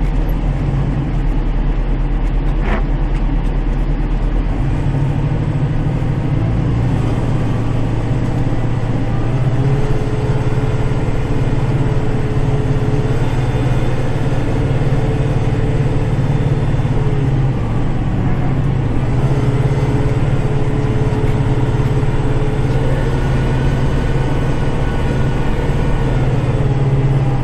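Kubota tractor's diesel engine running steadily, heard from inside the cab while it plows snow. The drone grows heavier about five seconds in, and a higher steady hum comes in twice over the engine.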